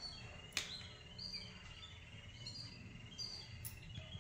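Faint birds chirping in the background, strings of short high notes, with a single sharp click about half a second in.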